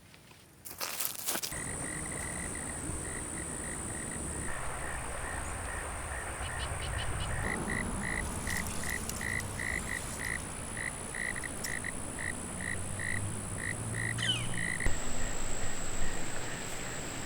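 Nighttime chorus of frogs and insects: a frog calls in a long series of short, evenly spaced notes, about two to three a second, over a steady high insect drone. It starts abruptly about a second in.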